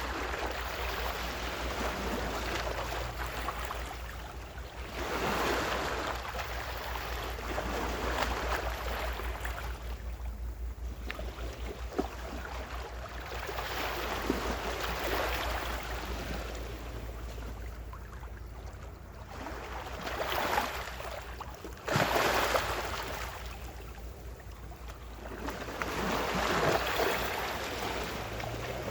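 Gentle ocean waves washing onto the shore, each wash swelling and fading every few seconds, over a steady low rumble.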